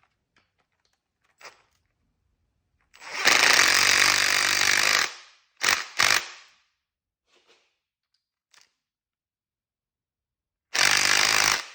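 Impact wrench hammering in bursts: one run of about two seconds, two short blips, then another run of about a second near the end.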